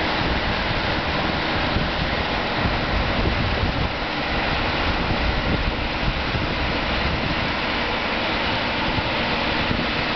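Mount Washington Cog Railway train descending the mountain, a steady mechanical rumble.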